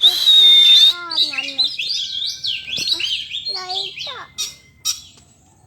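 Oriental magpie-robin singing a fast, varied song of gliding whistles and harsh notes, opening with a loud rasping burst over a held high whistle.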